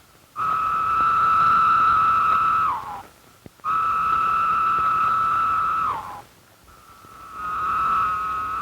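Periodical cicadas singing: long droning calls, each held on one steady pitch for about two seconds and then dropping in pitch at the end. Two complete calls are separated by short gaps, and a third begins near the end.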